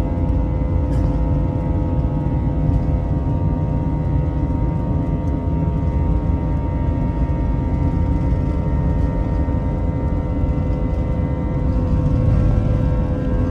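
Airbus A321 cabin noise: the jet engines running with a loud, steady low rumble and several steady whining tones over it.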